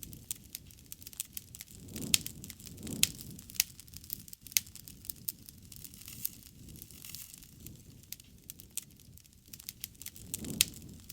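Wood fire crackling, with many sharp irregular pops and snaps over a low rumble of the flames. The rumble swells about two seconds in and again near the end.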